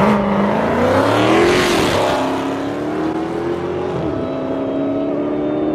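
Car engine accelerating hard under full throttle, its note climbing, then dropping at a gear change about two seconds in and again about four seconds in, before climbing once more.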